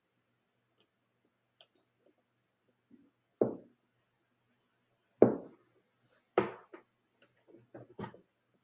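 Handling noises as a nasal cannula's plastic oxygen tubing is fitted into the nose and looped over the ears: a few separate soft knocks and rustles, with a quick run of smaller ones near the end.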